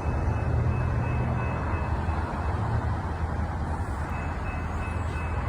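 Diesel locomotive engine running with a steady low rumble, and a faint steady high tone above it.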